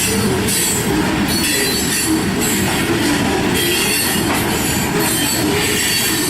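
A freight train's cars rolling past, loud and steady, with the steel wheels squealing against the rails in high tones that come and go.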